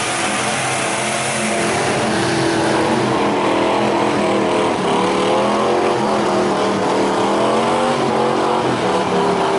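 Mud truck engine running hard, its pitch wavering up and down as it revs.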